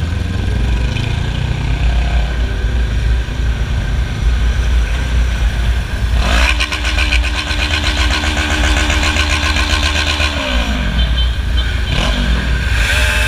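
Motorcycle engine revving: about halfway through the pitch rises sharply and holds high for several seconds, then drops away and climbs again near the end, over a steady low rumble.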